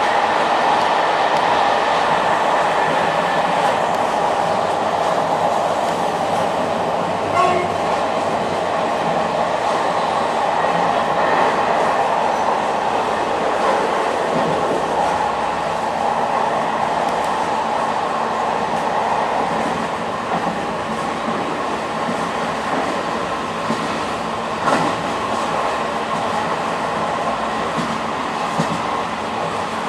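Train running steadily: a continuous rolling rumble with a steady hum, and a couple of short knocks, one about 7 seconds in and one about 25 seconds in.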